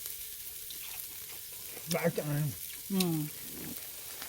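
Pork neck sizzling steadily on a grill over a charcoal brazier.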